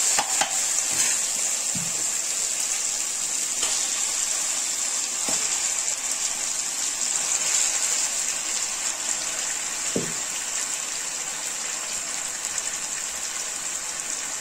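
Spice-marinated chicken pieces sizzling in hot oil in a pan over fried onion and tomato: a steady hiss with a few faint ticks.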